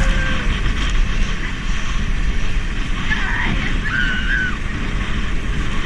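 Steady rushing of wind and water on an action camera riding a banana boat towed behind a motorboat, with faint distant shouts about halfway through.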